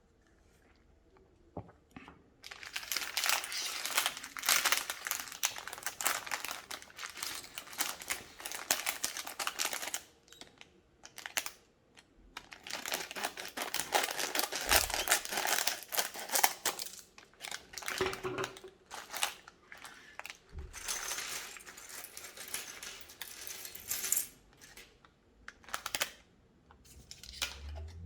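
Plastic packaging crinkling as it is handled and opened, in long stretches broken by short pauses. Small clicks and clinks are scattered through it.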